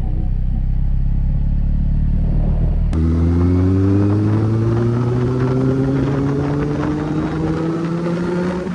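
Motorcycle riding, a low steady rumble at first. About three seconds in it changes abruptly to the Kawasaki Z800's inline-four engine note, which climbs slowly and steadily in pitch for about six seconds as the bike accelerates.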